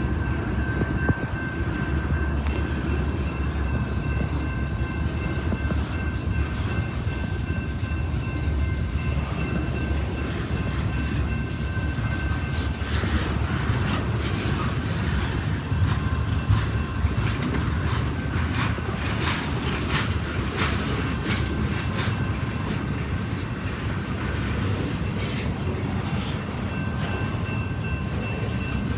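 CSX intermodal freight train of double-stack container cars rolling past, a steady rumble of wheels on rail. Through the middle there is a run of sharp clacks as the wheels pass over rail joints.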